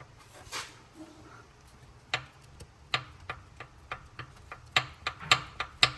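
A series of short, sharp clicks and taps during an engine teardown, sparse at first and coming faster and louder from about two seconds in.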